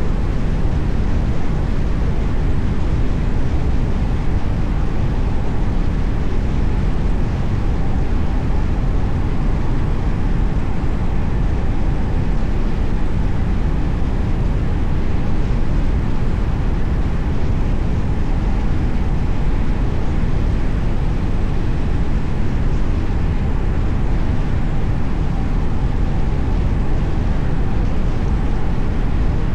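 Steady low rumble of a car driving along a road: tyre, road and engine noise that holds even throughout.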